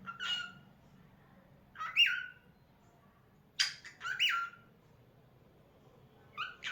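Lutino cockatiel calling: short chirps and upward-sliding whistles in separate bouts about every two seconds, the loudest about two seconds in.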